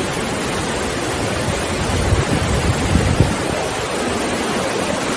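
Rushing floodwater: a loud, steady roar of water, with a few sharper knocks near the middle.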